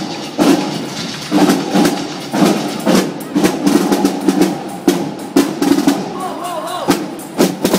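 Marching drum line playing: rapid snare drum rolls broken by sharp accented hits, with bass drum beneath.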